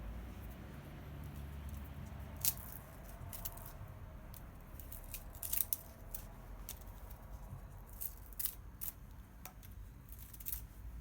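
Wood bonfire crackling, with irregular sharp pops, some louder than others, over a low steady rumble.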